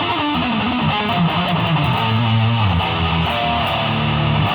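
Electric guitar played through a Fender Bassman 200 amp: a quick descending run finishing just after the start, then low notes held and changed about every half second to a second.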